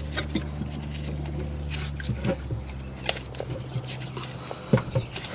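Light metallic clicks and taps of a new brake pad being pushed into a disc-brake caliper, over a steady low hum that fades about two seconds in.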